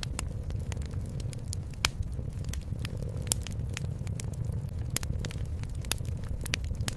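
Wood fire crackling in a fireplace: irregular sharp snaps and pops, a couple of them louder about two and three seconds in, over a steady low rumble.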